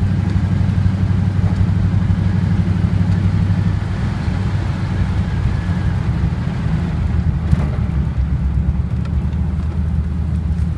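Engine of a 1939 car running steadily while driving, a low rumble that eases slightly partway through.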